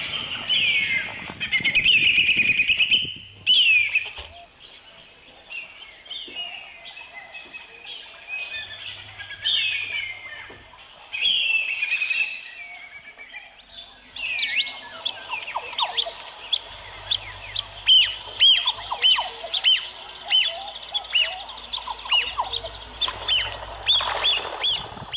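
Wild birds calling: a mix of whistles that slide downward and chirps, then from about halfway a run of short, sharp repeated notes, about two a second.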